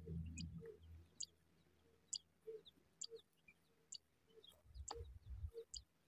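Faint, short high-pitched chirps from a small bird, repeating about once a second, with low rumbles near the start and about five seconds in.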